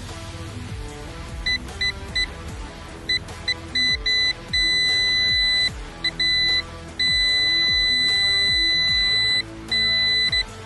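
Electronic beeping at one steady high pitch, switching on and off irregularly: a run of short beeps, then longer beeps held for a second or more, over background music.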